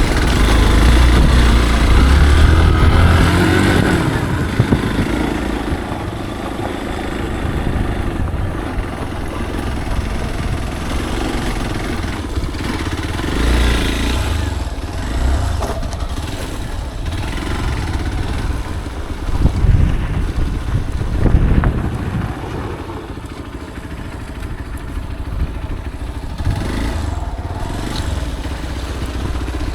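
Motorcycle engine running while riding, the engine note rising and falling. It is loudest and deepest in the first few seconds and again briefly about twenty seconds in.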